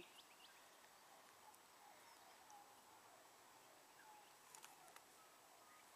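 Near silence: faint outdoor ambience with a few faint, distant bird calls and a couple of small clicks.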